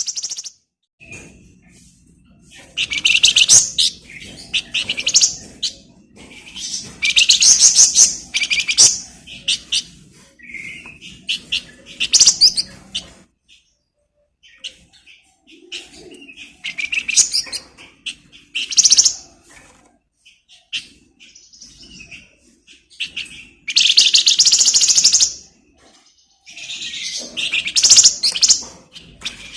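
A flamboyan songbird singing: loud bursts of rapid, high chattering trills and chirps, each a second or two long, repeated with short pauses.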